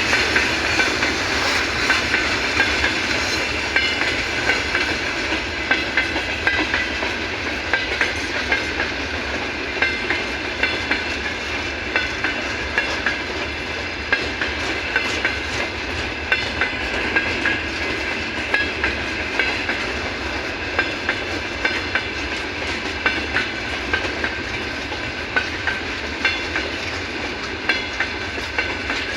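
Freight train wagons rolling past at speed, their wheels clacking over the rail joints in a steady repeating rhythm, over a continuous rumble and a high ringing from the wheels and rails.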